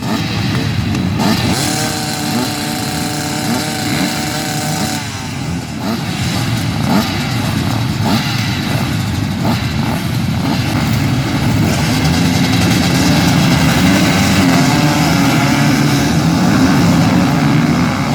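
Motorcycle engine running, its pitch shifting several times.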